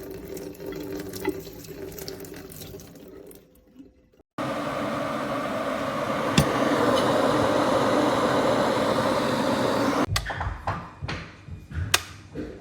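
Water pouring steadily for about six seconds, starting and stopping abruptly. Before it there is fainter water sound with a few clicks, and after it a few clicks and knocks.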